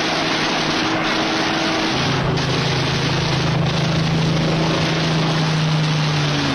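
Loud, steady engine-like drone with a dense hiss over a low hum; the hum drops lower and grows stronger about two seconds in.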